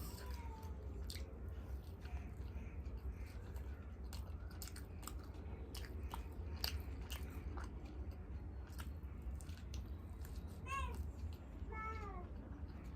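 Close-miked chewing of food, with many small wet clicks and smacks from the mouth over a steady low hum. Near the end two short high-pitched calls rise and fall in pitch.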